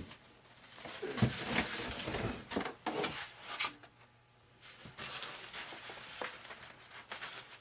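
Handling noises at a workbench: scattered light knocks, clicks and rubbing as glued model airplane parts are pressed into place and excess epoxy is wiped off.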